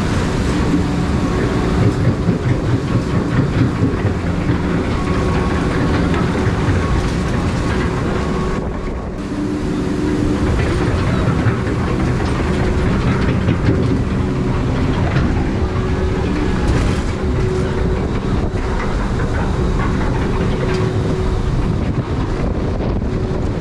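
Log flume boat being carried along on the ride's mechanical lift conveyor: a steady, loud rumble and rattle, with a faint hum from the drive.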